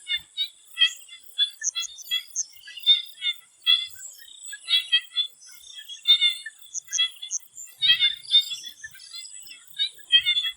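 Swamp frogs calling in a chorus of short, repeated notes, two or three a second and overlapping, over a steady high-pitched whine.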